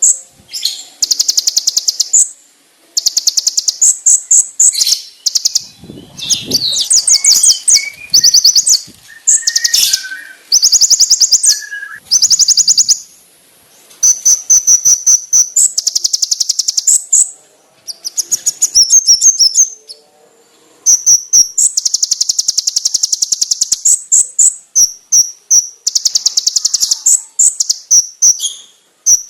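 Olive-backed sunbird song: loud, rapid, high-pitched trills in bursts of one to two seconds with short pauses between them, the sharp rapid-fire 'tembakan' phrases prized in a konin training recording.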